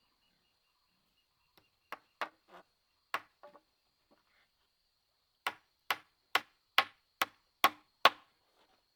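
Blade chopping into wood: a few uneven strokes, then a steady run of seven chops about two a second, each one harder.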